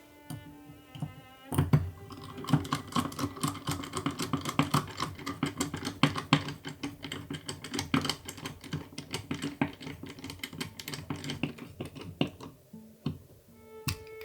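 Rapid, irregular clicking and rattling of small hard parts being handled, starting about a second and a half in and stopping near the end, over soft background music.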